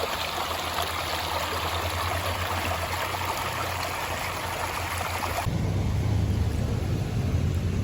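Rushing river water, a steady bright hiss of flowing water. About five and a half seconds in it cuts abruptly to a deep, steady low rumble with little high sound.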